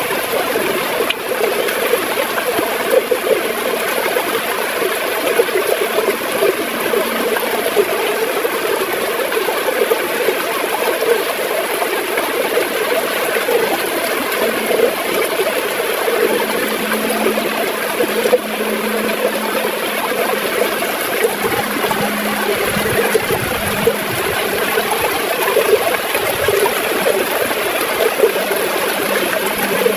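River water gurgling and flowing steadily, a dense rippling rush. A faint low hum comes in now and then in the second half.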